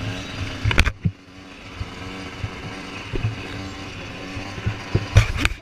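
Motocross motorcycle engines running steadily, with a few sharp, loud thumps about a second in and again near the end.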